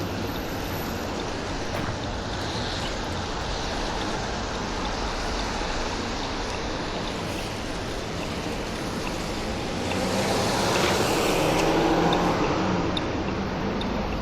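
Steady hum of street traffic, with one vehicle passing close by about ten seconds in, the tyre and engine noise swelling and then fading.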